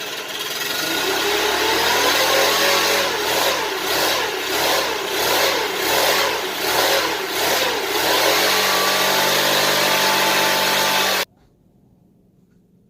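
Leaf blower engine revving to blow accumulated lint out of a clogged dryer vent duct: it rises about a second in, surges up and down about twice a second for several seconds, then holds steady at high speed before cutting off suddenly near the end.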